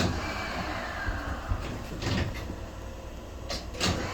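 Shonan Monorail 5000-series car standing at the platform with its doors open: a steady low hum, broken by a few sharp knocks and clunks about two seconds in and near the end.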